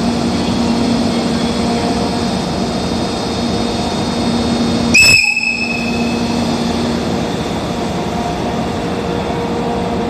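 EF64 electric locomotive's whistle giving one short, sharp high blast about halfway through, over the steady hum of the locomotive at the platform.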